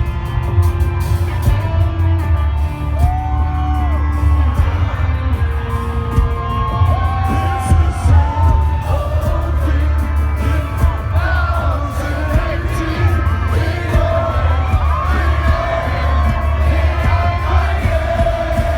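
A heavy metal band playing loudly live, with a heavy pounding low end under sustained guitar notes. Singing and crowd whoops come in over the music from about halfway.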